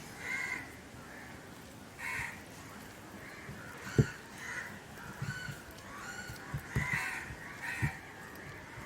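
Crows cawing repeatedly, a run of short separate calls, with a few dull knocks around the middle and toward the end.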